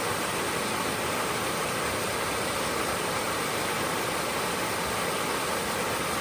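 Brook flowing: a steady, even rush of running water.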